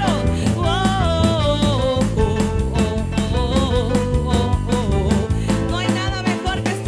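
Upbeat live worship-band music: a steady drum-kit beat, bass and guitar under a sung melody.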